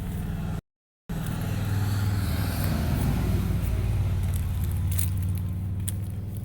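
Car engine running with a steady low hum that swells louder after a brief cut to silence, then eases off again, as a car passes or accelerates.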